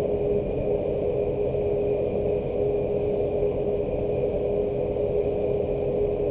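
Steady machine hum: a low rumble with one constant mid-pitched tone, unchanging throughout.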